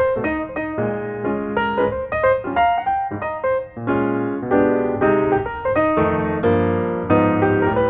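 Background music: a piano playing a quick run of notes, with chords and a steady bass underneath.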